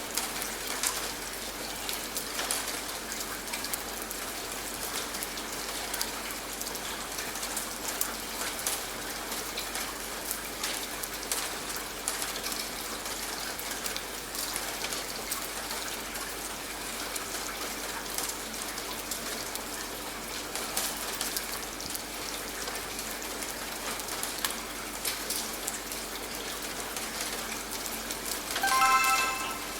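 Steady rain falling, with scattered individual drops ticking on a hard surface. About a second before the end, a short pitched chime sounds, the timer's cue marking the end of the 30-second interval.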